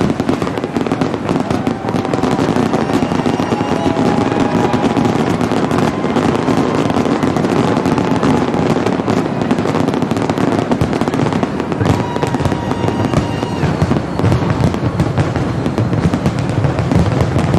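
Large aerial fireworks display: a continuous barrage of bangs and crackling, with no letup.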